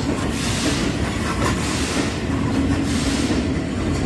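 Class 47 diesel locomotive's Sulzer V12 engine working steadily under power as the train pulls away from a stand, with faint wheel and rail clicks.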